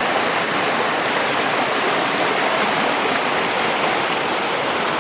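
Rushing river water: a steady, even wash of noise.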